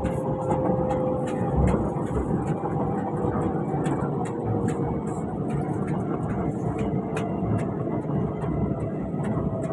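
SMRT Alstom Movia R151 train running on the East-West Line: a steady rumble and rail noise with scattered sharp clicks, and a faint motor whine that falls slowly in pitch as the train slows towards the station.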